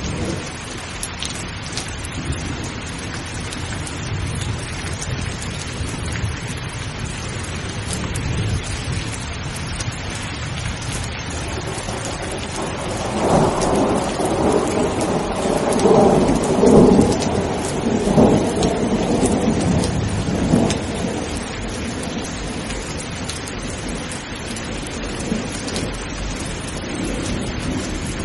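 Steady heavy rain with thunder: a long rolling rumble swells about halfway through, peaks, and dies away over several seconds.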